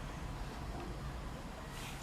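Quiet outdoor background: a steady, faint hiss with no distinct sound standing out.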